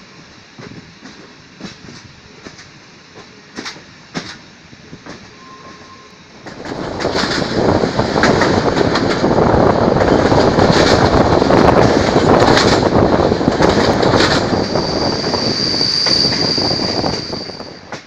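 Passenger train running, heard from an open carriage window: at first fairly quiet with scattered clicks of the wheels over the rails, then about six seconds in a loud rushing noise of wheels on track that lasts until near the end. A high steady wheel squeal sounds over it in the last few seconds.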